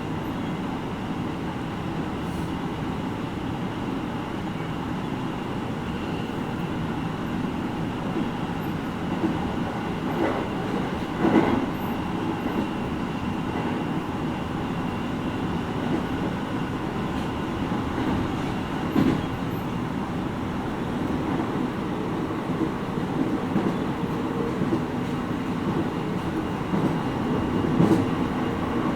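JR East 701 series 5500-subseries electric train running between stations, heard from inside the passenger car: steady rolling noise of wheels on rails, with a few louder knocks from the track.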